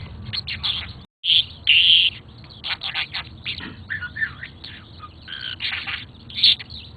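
Budgie chirping and chattering in a string of short calls and warbles, the loudest just under two seconds in. The sound cuts out completely for a moment at about one second.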